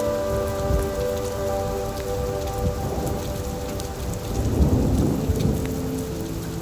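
Steady rain with a rumble of thunder that swells about four and a half seconds in and fades again, over soft held tones.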